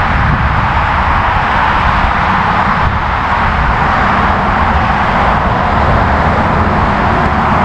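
Steady road traffic noise: a low rumble under an even hiss.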